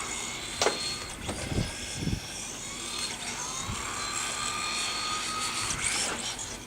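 Battery-powered RC cars' electric motors whining, gliding up and down in pitch as they speed up and slow down, with a few knocks in the first two seconds.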